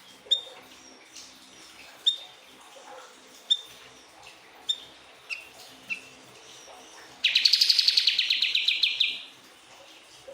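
Siri-siri bird calling: several short, sharp chirps about a second apart. About seven seconds in comes a loud, fast trill of rapidly repeated notes lasting about two seconds.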